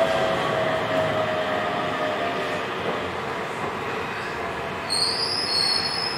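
Running noise heard inside a Hokuso 7800 series train car, its Toyo GTO-VVVF inverter's tone falling in pitch and fading as the train slows, over a steady rumble of wheels on rail. About five seconds in, a high-pitched squeal sets in.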